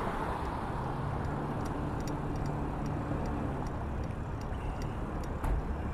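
Strong wind buffeting the microphone, with the steady hum of passing road traffic and a few faint clicks.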